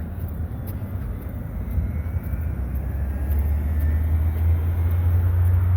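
Road traffic rumble: a low, noisy rumble of passing vehicles that grows louder over the last few seconds.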